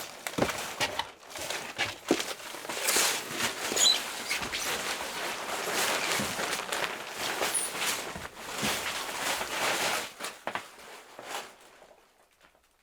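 Rustling, scraping and scattered knocks of junk and furniture being handled and moved during a clean-out, dying away near the end.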